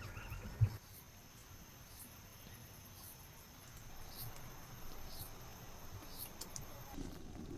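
Insects chirring steadily at a high pitch, with a few faint ticks and a soft thump less than a second in; the highest note stops near the end.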